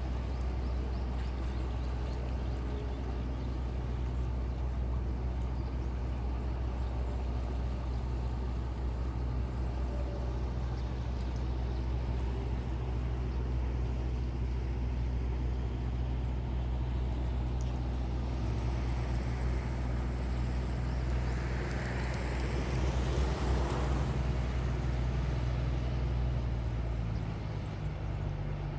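An engine runs steadily with a low drone and cuts off near the end. Something louder swells and fades about three quarters of the way through.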